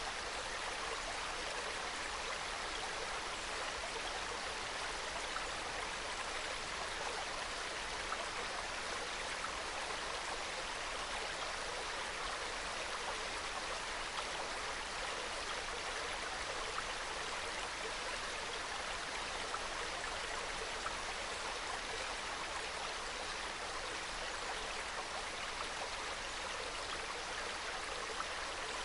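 Small valley stream flowing and trickling over rocks, a steady, soft babbling of water.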